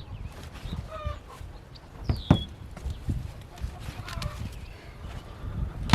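Chickens clucking, over a steady low rumble of wind on the microphone, with a few sharp knocks, the loudest about two seconds in and at the very end.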